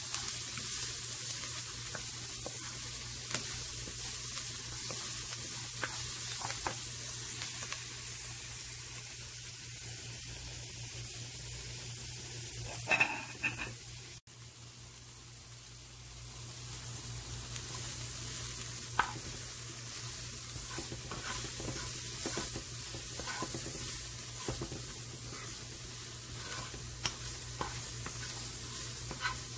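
Chopped onion and green pepper sizzling in oil in a nonstick frying pan while a wooden spoon stirs them. About halfway through there is a brief clatter of a utensil, and the sizzle is quieter for a moment.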